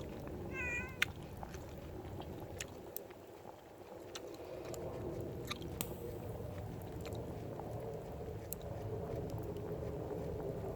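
A domestic cat meows once, briefly, about half a second in. Scattered sharp clicks and a steady low rumble run underneath.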